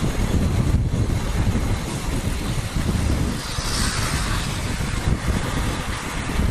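Riding noise from a CPI DTR 150 motorcycle on the road: a steady low rumble of engine and wind buffeting the rider's microphone.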